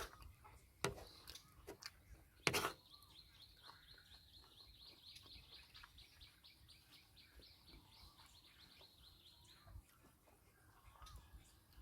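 Faint bird chirping over a steady high-pitched trill that stops near the end, with two sharp clicks in the first few seconds.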